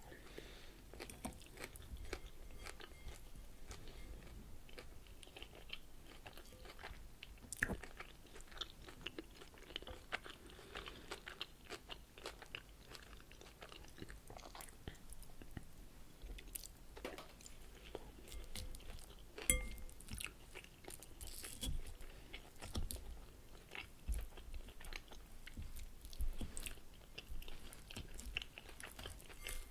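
Close-miked chewing and crunching of a mouthful of crisp salad leaves, a continuous stream of small wet crackles. A metal fork scrapes and clinks in the glass bowl now and then, with two sharper strikes about eight and twenty seconds in.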